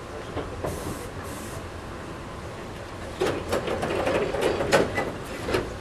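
Toyohashi Railway 1800-series electric train running, heard from inside the car: a steady rumble with two short hisses about a second in, then from about halfway a rapid burst of irregular wheel-and-body clattering lasting a couple of seconds.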